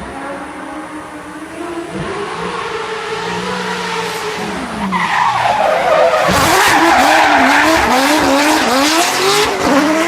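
Volkswagen Passat race car's engine revving as the car drifts with tyres squealing. It grows louder through the first half and is loudest in the second half, where the revs rise and fall quickly and the tyre squeal is strongest.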